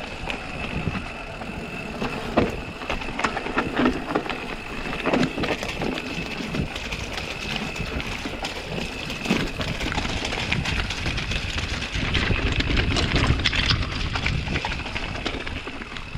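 Mountain bike descending a steep, wet, muddy trail: tyres rolling and slipping through mud, with repeated knocks and rattles from the bike over bumps, low wind rumble on the helmet camera, and a steady high-pitched whine throughout.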